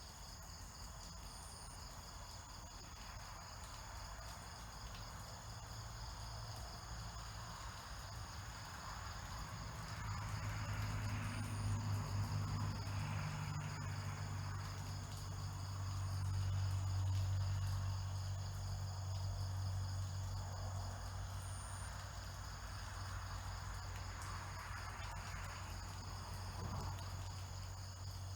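Insect chorus: a steady, high-pitched trilling with fast pulsing. A low hum swells under it through the middle.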